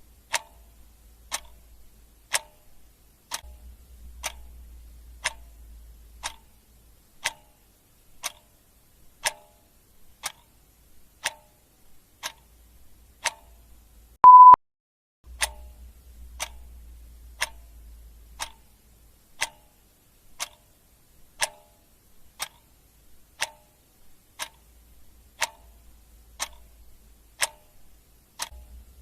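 Clock-ticking sound effect, one sharp tick about every second. About halfway through, a short, loud electronic beep at a single steady pitch cuts in once.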